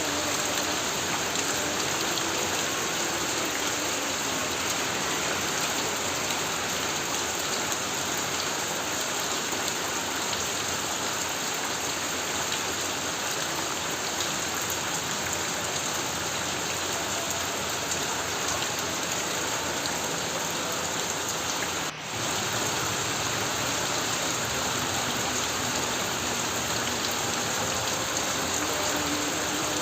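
Heavy rain pouring steadily onto a tin roof, a dense, even hiss, with a brief dip in level about two-thirds of the way through.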